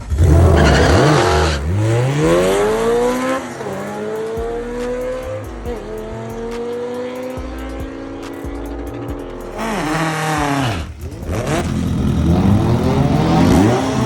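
High-performance car engine revved hard. The pitch climbs sharply at the start, holds high for several seconds, drops and surges again twice near the end, with a noisy tyre squeal over the loudest stretches.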